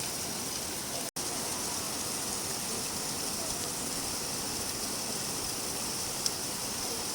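Steady rain falling, an even hiss of drops. The sound cuts out for an instant about a second in, and a single short tick comes near the end.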